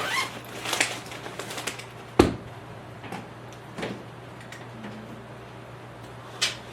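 Scattered clicks, taps and knocks of small objects being handled and set down, one sharp knock about two seconds in the loudest, over a faint steady low hum.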